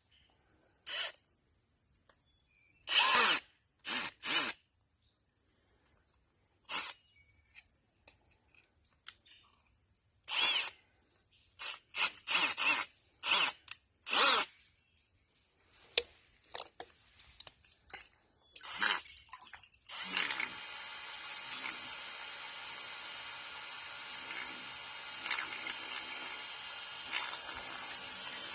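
A few short, scattered noises, then about twenty seconds in a small motor starts and runs steadily.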